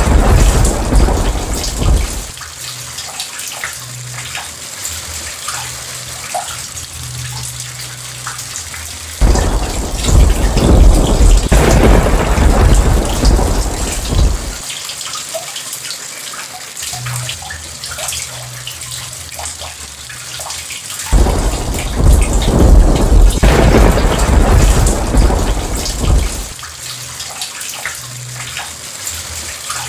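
Steady rain with drips spattering, broken by rolls of thunder: one rumble fading out early, then two more that come in suddenly and rumble for about five seconds each.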